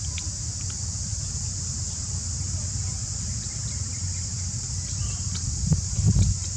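A steady high-pitched insect chorus over a constant low rumble, with a few dull thumps near the end.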